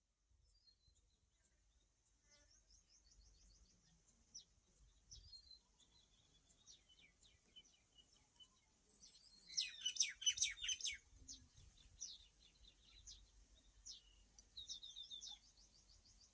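Small birds chirping and trilling faintly in short high calls, with a louder flurry of rapid chirps about ten seconds in.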